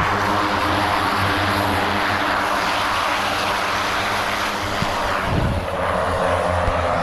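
Light propeller airplane's engine running steadily, its even drone under a broad rush of propeller and air noise. There is a brief dip with a few low thuds a little after the middle.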